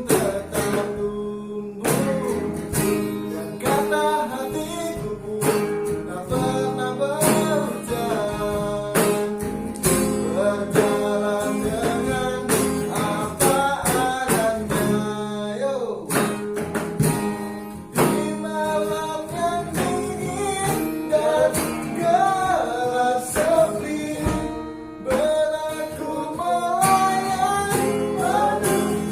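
A voice singing a pop ballad to a strummed acoustic guitar, the sung line running unbroken over steady strumming.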